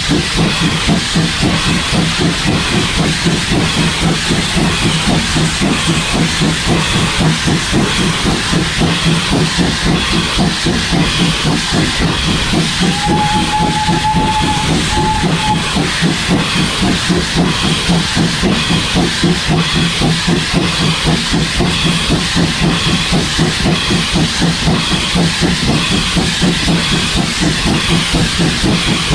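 Small steam locomotive working along the line, its exhaust chuffing in rapid, even beats over a steady hiss of steam. About thirteen seconds in there is a brief high whistle note, a longer one and then a short one.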